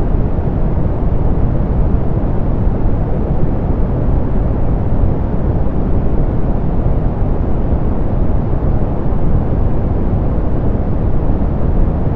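Steady, softened pink noise: an even hiss weighted toward the low end and rolled off in the highs, unchanging throughout.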